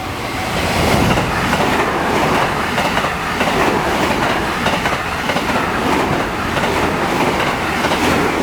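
A train passing close by at speed: a loud, steady rush of wheels on rail, with a clickety-clack of wheels over the rail joints.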